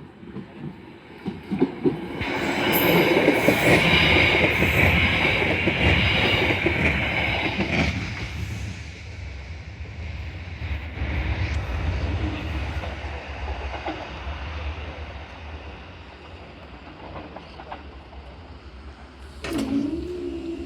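Electric passenger train passing over the level crossing: wheel and rail noise builds to its loudest a couple of seconds in, with a high wheel squeal and the clickety-clack of wheels over rail joints, then fades slowly as the train pulls away. A steady low tone starts near the end.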